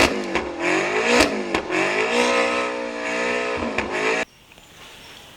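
Car engine revving sound, its pitch rising and falling several times, with a few sharp clicks; it cuts off suddenly about four seconds in.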